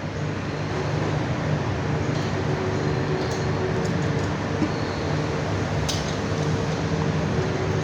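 Steady mechanical hum of background machinery or ventilation, with a few faint light clicks.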